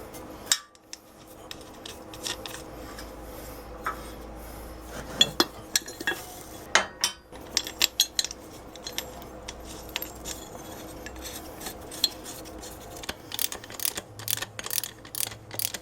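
Loose metal parts and hand tools clinking and knocking while bolts are fitted to a motor-mount bracket, with a quick run of clicks near the end.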